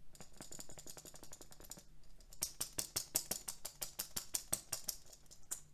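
Rapid, faint mechanical clicking at about eight clicks a second, with a short pause about two seconds in, from a small clicking or ratcheting mechanism.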